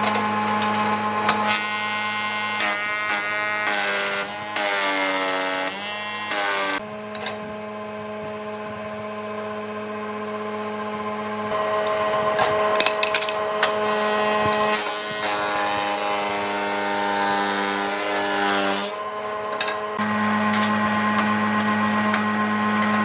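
Electric power tool motor running on wood. Its pitch sags and recovers several times as the tool is pushed into the work and eased off.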